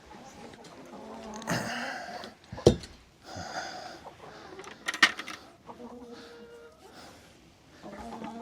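Chickens inside a henhouse making hoarse, wheezy calls, with two sharp knocks about two and a half and five seconds in.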